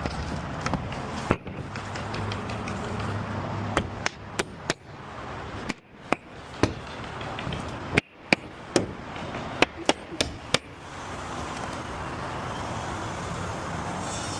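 A series of about a dozen sharp knocks or taps, irregularly spaced and bunched in the middle, over a steady background noise.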